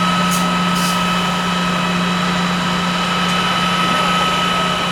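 Fire engine's engine and pump running steadily at the fireground: a constant low drone with several steady high whining tones over a hiss.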